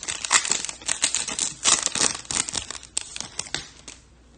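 Foil trading card pack wrapper crinkling and tearing as a pack of 2022 Topps Chrome baseball cards is opened, in quick irregular rustles that die away near the end.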